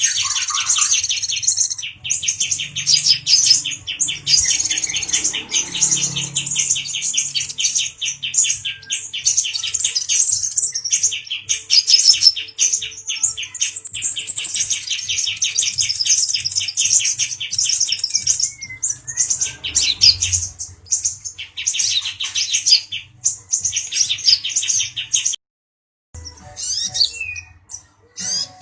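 Male brown-throated sunbird singing in long runs of rapid, high trilling chatter, the notes repeated very fast, with a few short pauses and a brief silent break near the end.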